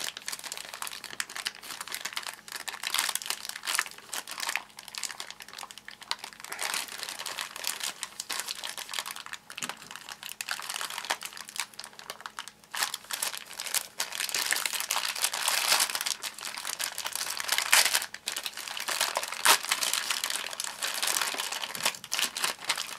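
Packaging being handled while toy train-set pieces are unwrapped: a continuous crinkling and rustling with small crackles and tearing, busier and louder in the last third.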